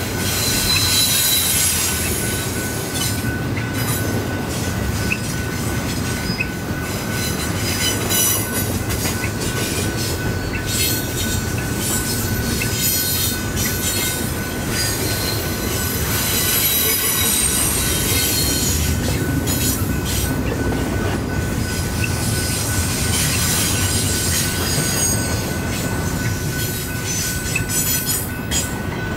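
Double-stack intermodal freight train rolling through a grade crossing: steel wheels squealing and clattering and the well cars rattling, steady and loud. A steady high ring runs underneath, fitting the crossing signal's bell sounding while the lights flash.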